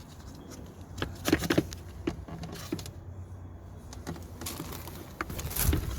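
Plastic knocks, clicks and scrapes of a car's air filter housing and filter element being handled as the old filter is worked out of the box, over a steady low rumble that grows louder near the end.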